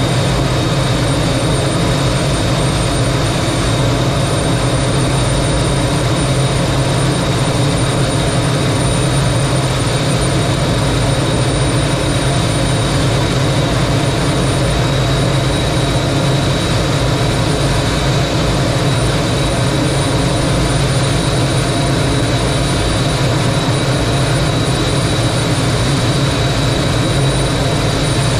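Single-engine T-33 jet trainer's Allison J33 turbojet running at a steady setting: a loud, even rushing noise with a low rumble and a thin, steady high whine over it.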